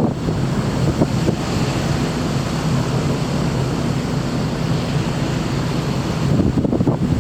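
Large car ferry underway at sea: a steady rush of wind and water over a low engine drone.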